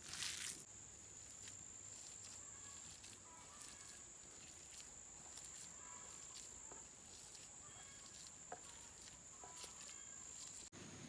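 Quiet outdoor ambience with a steady high-pitched insect drone, faint scattered ticks and a brief crunch at the very start.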